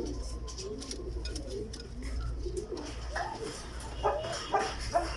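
Pigeons cooing, with low wavering coos at first and shorter, higher calls from a little past halfway, over a steady low hum.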